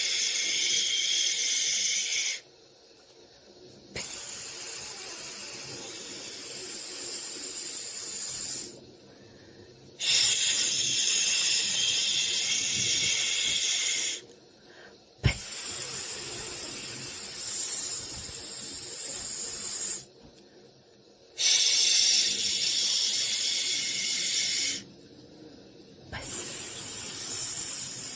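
A soothing 'shhh' hiss for a baby, held for three to five seconds at a time with short breaks between, six strokes in all. A single sharp click about halfway through.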